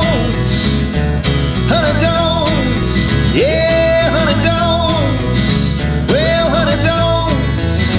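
Rockabilly band playing an instrumental break: a lead guitar repeatedly bends a note up and holds it, about every two and a half seconds, over a steady bass and drum beat.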